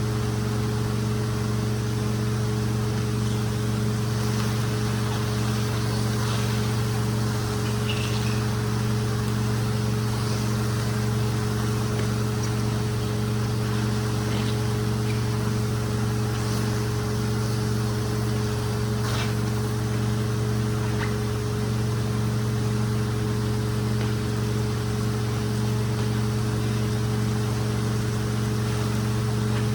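Hot-water carpet-extraction machine running steadily: a constant motor hum with hiss from the suction airflow, and a few faint ticks.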